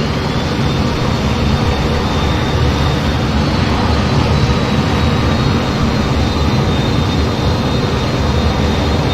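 F-15 jet engines running, a steady dense rumble with a thin high whine over it that shifts slightly in pitch about three and a half seconds in.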